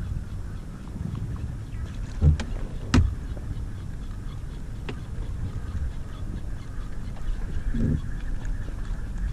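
Water and wind noise around a kayak, a steady low rumble, with two sharp knocks about two and three seconds in and a couple of fainter ones later.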